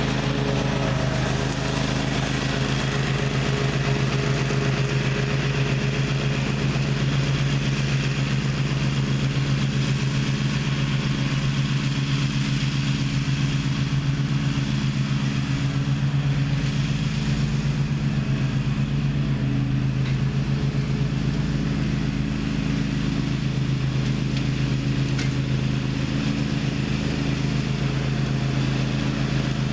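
Gravely ZTX 42 zero-turn mower running steadily under load with its blades engaged, mulching pine straw and pine cones.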